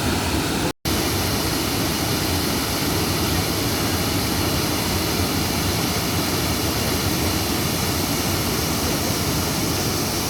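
Waterfall: a steady rush of falling water, with a split-second dropout to silence about a second in.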